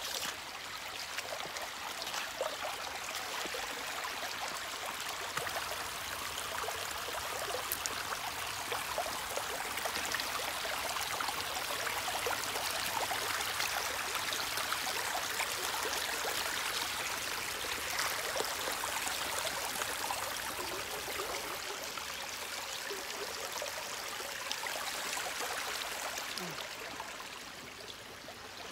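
Stream water running steadily over rocks, with many small splashes and drips through the rushing.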